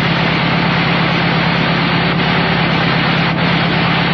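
Dune buggy engine idling steadily, a constant low hum with no change in speed.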